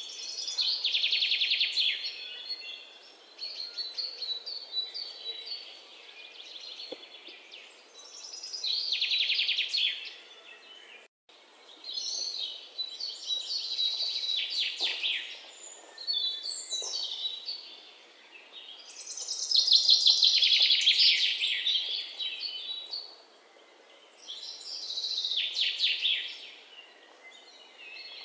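Songbird singing, repeating a phrase of rapid trilled notes every few seconds over a faint steady background hiss; the sound drops out for an instant about eleven seconds in.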